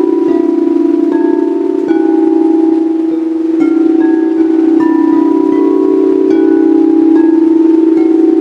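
A singing bowl sounding a loud, steady drone with a slow wavering beat, while chimes ring over it in a loose, irregular scatter of higher notes, each struck note ringing out.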